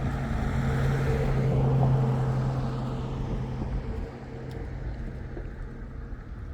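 A vehicle engine running with a steady low hum that grows louder, peaks about two seconds in, and drops away about four seconds in, as if passing by.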